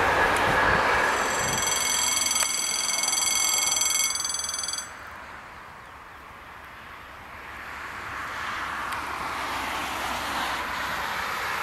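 Train noise at a level crossing with a steady high ringing tone over it for the first four seconds or so. The sound drops off suddenly just under five seconds in, then the rumble of an approaching TER passenger train grows steadily louder.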